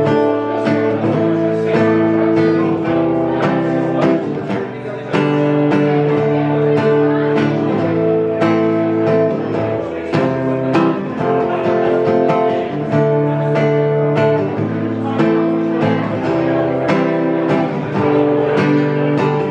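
Acoustic guitar strummed in a steady rhythm, with the chords changing every second or two: an instrumental stretch of a song.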